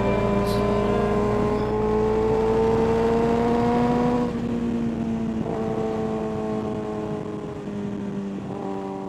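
Kawasaki ZX-6R 636 inline-four engine pulling under steady throttle, its pitch climbing slowly for about four seconds. The pitch then drops suddenly as the throttle comes off, and the engine runs on at a lower, steady pitch, slowly fading near the end.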